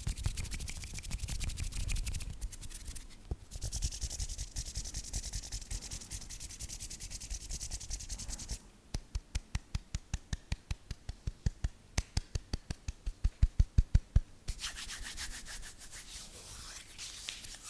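Scratching and rubbing on an object, then a run of quick, evenly spaced strokes, about five a second, that grow louder. These stop about fourteen seconds in and give way to softer scratching.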